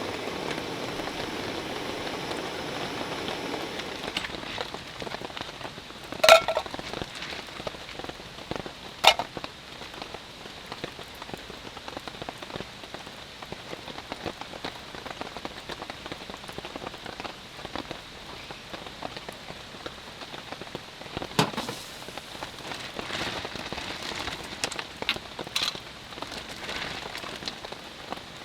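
Steady rain falling, with a few sharp knocks or clinks, the loudest about six seconds in and again about nine seconds in.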